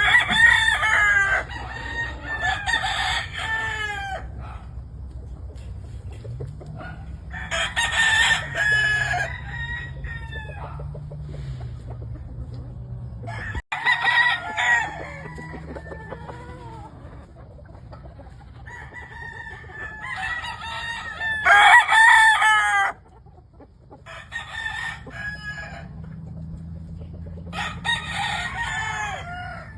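Gamefowl roosters crowing over and over, a couple of seconds per crow, with a new crow every few seconds.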